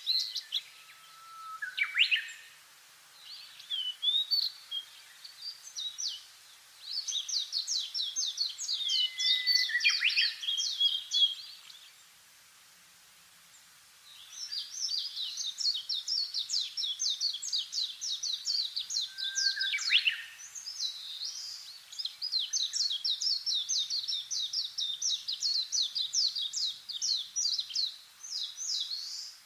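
Songbirds singing: long runs of rapid, high chirps, broken by a few sharp calls that sweep down in pitch about two, ten and twenty seconds in.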